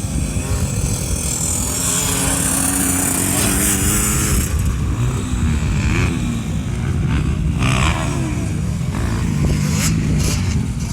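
KTM motocross bike engine revving, its pitch rising and falling repeatedly.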